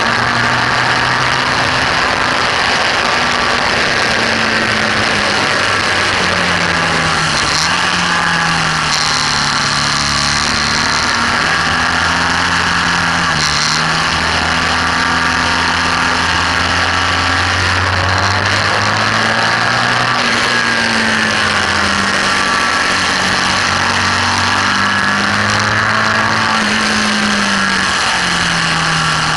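BMW R1200S's air/oil-cooled boxer twin running hard on a race track, its revs climbing and dropping repeatedly, under heavy wind rush on the microphone.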